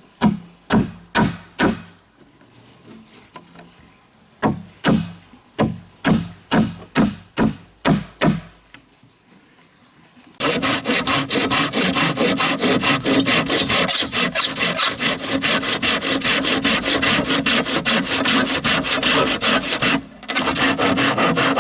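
Wood being worked by hand: a run of sharp chopping strikes, then, about ten seconds in, a long stretch of fast, even scraping strokes on wood that break off briefly near the end.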